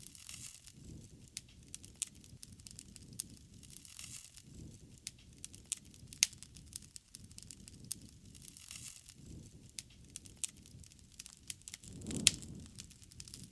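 Wood campfire crackling, with scattered sharp pops of burning wood over a low rushing of flames that swells and fades. The loudest pop comes about twelve seconds in.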